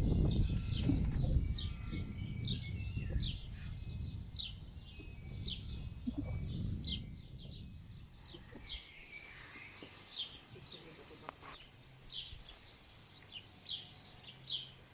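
A bird calling over and over with short, high, falling chirps, one or two a second, over a low rumble that dies away about halfway through.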